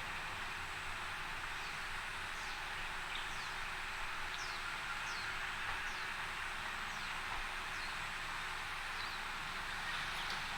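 A bird calling a series of short, high, falling chirps, about one or two a second, over a steady rushing background noise.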